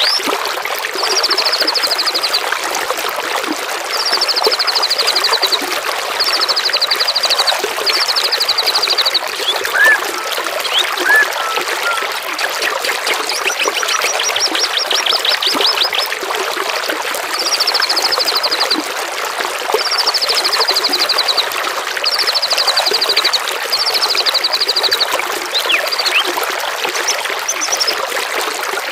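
Trickling, flowing water runs steadily under a songbird that repeats a short, very fast trill about nine times, each phrase lasting a second or so, with a few single whistled notes between.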